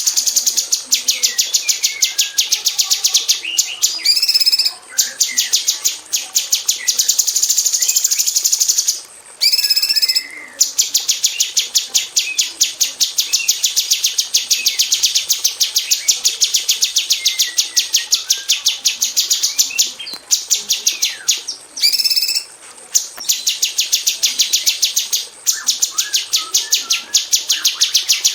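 Female orange-bellied leafbird (cucak cungkok) calling in a fast, dense rattle of repeated sharp notes. The rattle comes in long runs broken by short pauses, with a few brief whistled notes in between.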